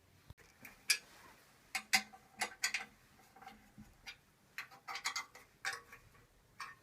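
About a dozen sharp, irregular clicks and taps, as of hard objects knocking together.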